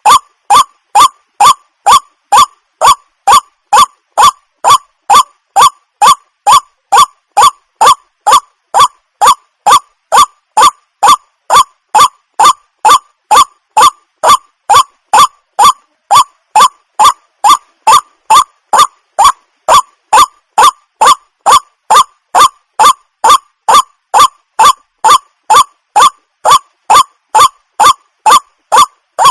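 Water hen calling: a short, harsh croaking note repeated evenly about twice a second, on and on without a break.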